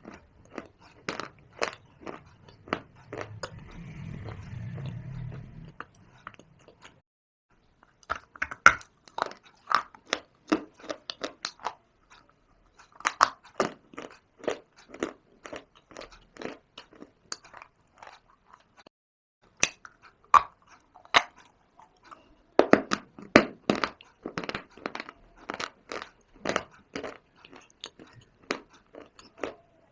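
Close-up crunching and chewing of dry shale stone and clay: runs of sharp, brittle cracks as pieces are bitten and ground between the teeth, broken by short pauses. A low muffled rumble comes about four seconds in.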